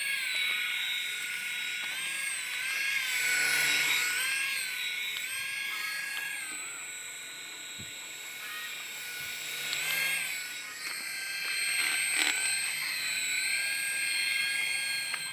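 A toy remote-control helicopter's small electric rotor motor whines high in flight. The pitch steps up and down every second or two as the throttle changes.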